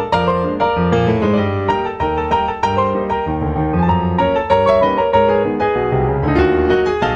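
Background piano music: a quick run of struck notes over a bass line at a steady pace.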